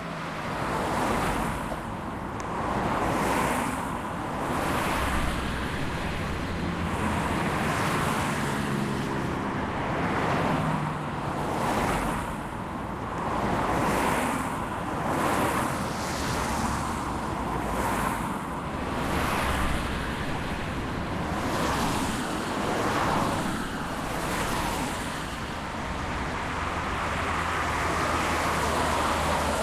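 Freight train cars rolling past on the rails, a steady rushing rumble that swells and fades about every second and a half to two seconds as the cars go by.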